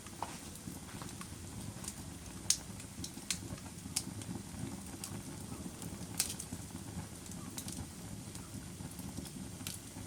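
Fire burning in a fireplace: a steady low rumble of flame, with irregular sharp crackles and pops. The sharpest pops come about two and a half seconds in and again a little after six seconds.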